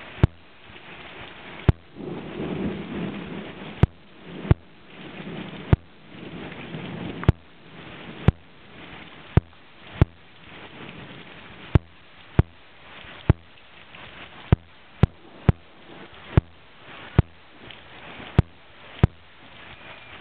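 Thunderstorm: steady rain hiss, with low thunder rumbling a couple of seconds in and again a few seconds later. Frequent sharp, loud clicks come roughly once a second and are louder than the thunder.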